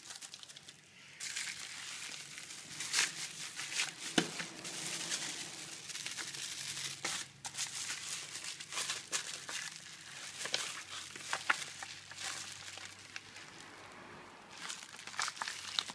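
A bag of small parts being handled, its packaging crinkling and rustling with irregular crackles.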